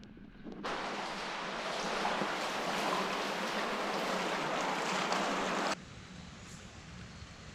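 Rushing river water, a dense steady hiss, that cuts off abruptly near the end to a much fainter hiss.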